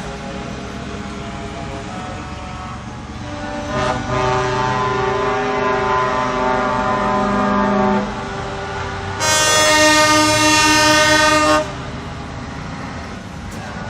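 Truck air horns sounding in long held blasts over the rumble of engines: one from about four to eight seconds in, then a louder, brighter one lasting about two and a half seconds.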